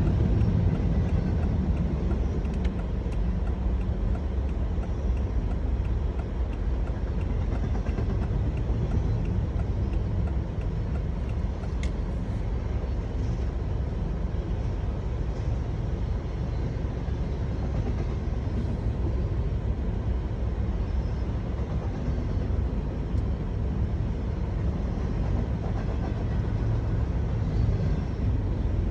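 Freight train cars rolling past, a steady low rumble with faint clicks.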